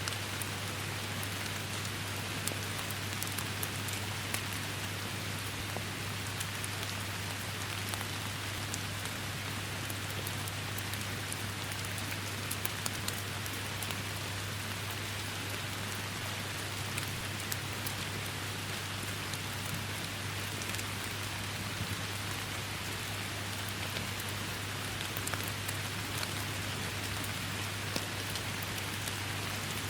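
Steady heavy rainfall: an even hiss of rain with many individual drops ticking sharply on surfaces, over a steady low hum.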